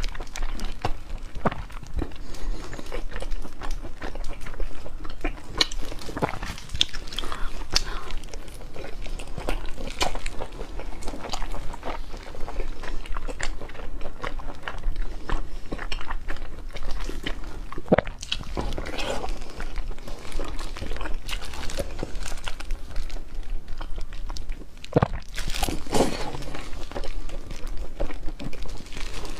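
A person biting into and chewing slabs of braised pork belly, with frequent short mouth clicks and now and then a fuller bite.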